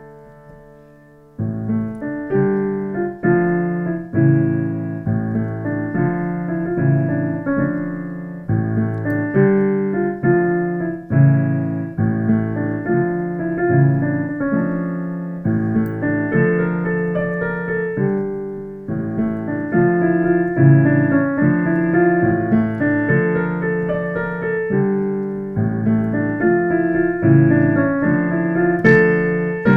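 Solo piano playing: a held chord fades away, then about a second and a half in a continuous flow of chords and melody notes begins, each note struck and ringing out.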